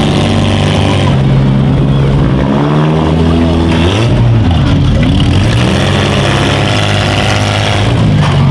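Several small-car demolition derby engines running loud and revving, their pitch rising and falling as the cars drive and push against each other.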